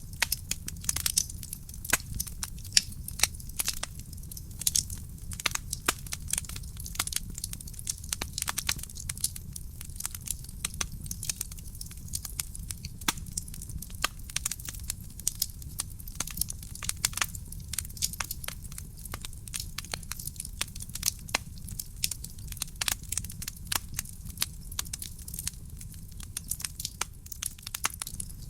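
Wood fire in a fireplace crackling: a dense, irregular run of sharp snaps and pops over a low steady rumble of the burning.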